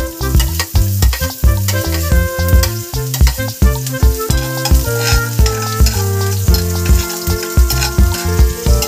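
Chopped garlic sizzling in hot oil in a stainless steel frying pan, stirred with a metal spoon. Background music with a steady beat plays over it and is the loudest sound.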